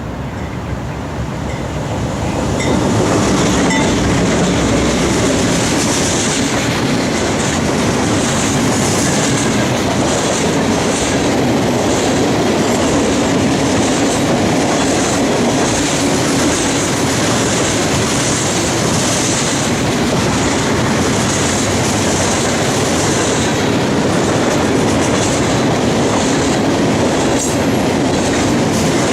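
A train passing close by, its cars rolling steadily with wheels clacking over rail joints. It grows louder about two and a half seconds in as the cars come alongside, then stays loud.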